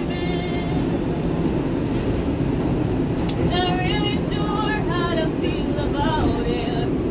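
Subway train running, its car rumbling steadily and heavily. A person sings over it, with a short phrase at the start and a longer one from about halfway through.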